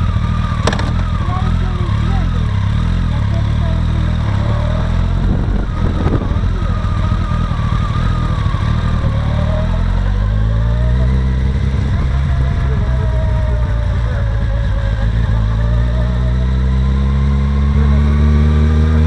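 Kawasaki ZZR1400's inline-four engine running under way, heard over a steady low rumble. About ten seconds in the engine note starts climbing steadily in pitch as the bike accelerates hard through a long pull.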